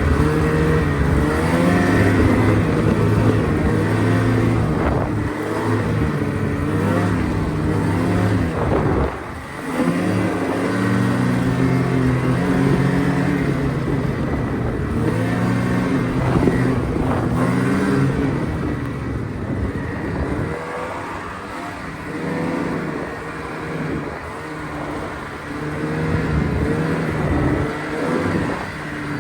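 A vehicle engine running under load while riding, its pitch rising and falling as the throttle is opened and eased, with a brief drop about nine seconds in.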